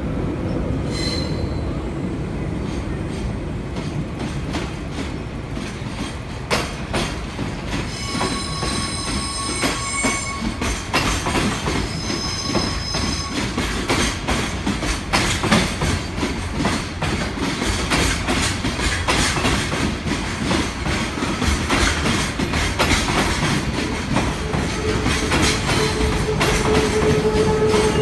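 Freight train running past, its wheels clattering over rail joints in a rapid run of clicks, with brief high-pitched wheel squeals about 8 and 12 seconds in. A steady lower tone joins near the end.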